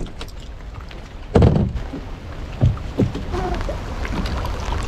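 A few dull thunks, the loudest about one and a half seconds in, over a faint steady rush of water.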